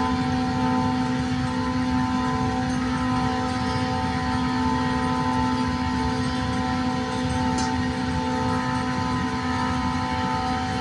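Railway locomotive running, a steady hum of several unchanging tones over a rough low rumble, with a single short click about three-quarters of the way through.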